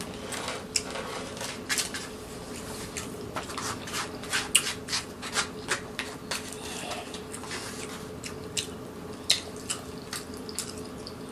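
Close-up eating sounds: irregular wet smacks and clicks of chewing and mouth noises, over a faint steady hum.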